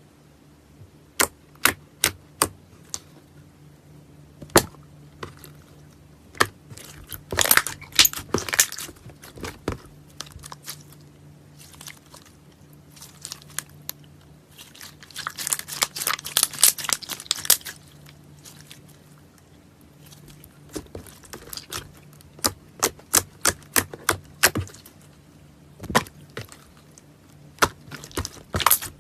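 Slime being squeezed and poked by hand, making sharp pops and clicks, with denser crackling runs about a quarter of the way in and again just past halfway.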